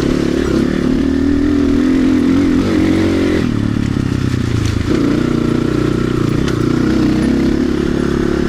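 RXB250XL dirt bike engine running under way, its note shifting about three and a half seconds in and again about five seconds in.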